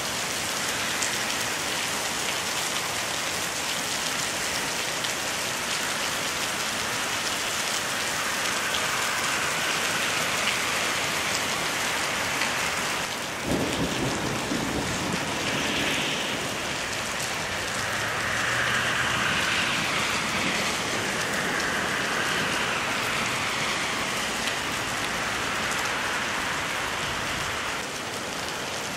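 Heavy thunderstorm downpour: a steady, dense hiss of rain pouring onto pavement and wet road. The sound changes abruptly about halfway through.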